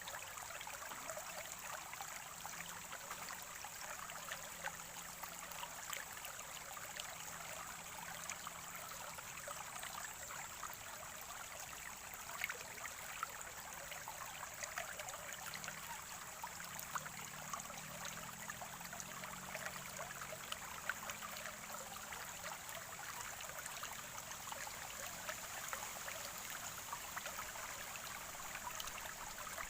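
Water from a small natural spring trickling and gurgling steadily, with many tiny splashes and drips.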